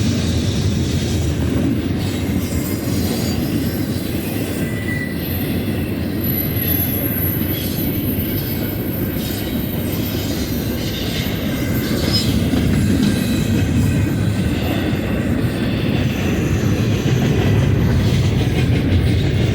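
BNSF double-stack freight train rolling past, its cars making a steady heavy rumble of wheels on rail. A faint high wheel squeal comes in at times.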